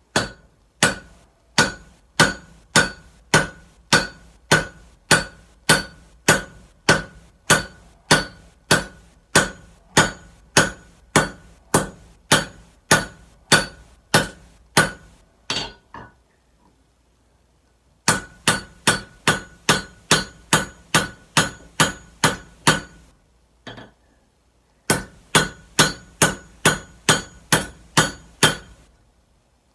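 Hand hammer striking a hot Damascus steel billet on an anvil in steady blows, about one and a half a second, each with a short metallic ring. The blows come in three runs, broken by two pauses of about two seconds.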